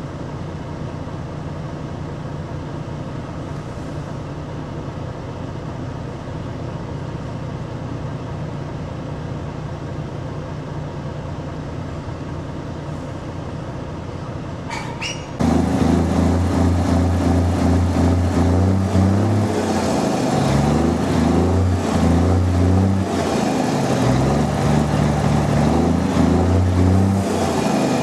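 Truck engine drone from inside a moving truck's cab, steady and even. About fifteen seconds in it cuts abruptly to a louder sound whose low notes step back and forth between pitches.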